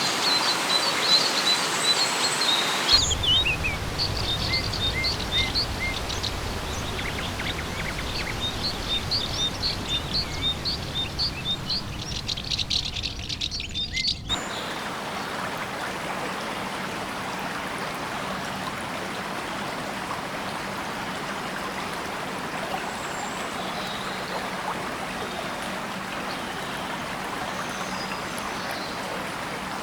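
Birds calling: quick repeated chirps and short whistled notes over a steady hiss and low rumble. These end abruptly about fourteen seconds in. After that comes an even steady hiss with only a few faint distant calls.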